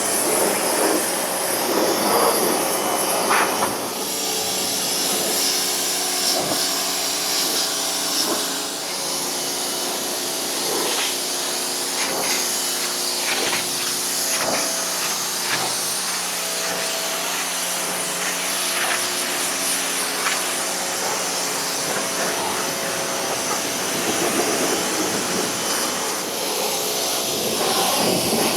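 Pressure washer running steadily: the hiss of the water jet rinsing detergent off a truck's frame, over the constant hum of the washer's pump motor.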